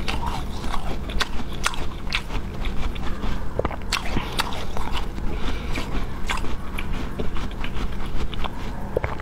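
Close-miked mouth-closed chewing, heard through a clip-on lavalier microphone: irregular soft clicks and smacks several times a second.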